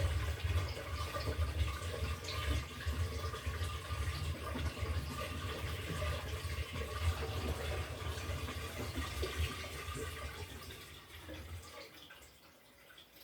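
LG top-loading washing machine with water running in its tub during the cycle: a rushing, splashing water sound over a low hum, which dies away about eleven to twelve seconds in.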